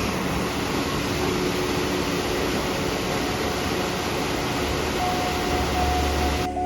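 Steady rushing roar of a waterfall, cutting off abruptly at the very end.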